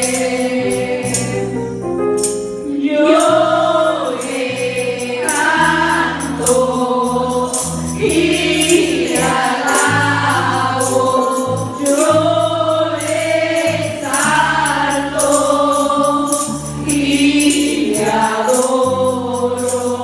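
Live gospel worship music: several voices singing together over a band, with sustained bass notes changing every second or two and steady, rhythmic percussion.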